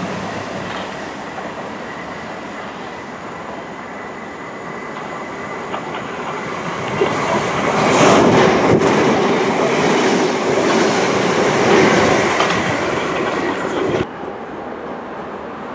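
Class 455 electric multiple unit passing along the platform close by, with steady wheel-and-rail noise. The noise swells about halfway through as the carriages go past, then drops sharply shortly before the end.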